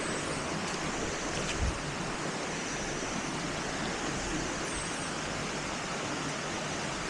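Waterfall rushing steadily into its pool, a dense even roar of falling water. A short low thump about a second and a half in.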